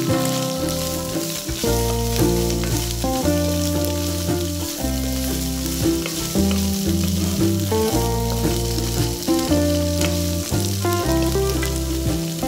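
Chopped garlic and diced chili peppers sizzling in hot oil in a wok, stirred with a wooden spatula. Background music with held notes and a bass line plays throughout.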